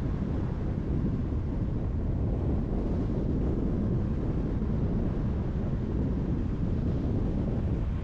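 Steady low rumble of a car driving on a highway: tyre and road noise with wind, even throughout.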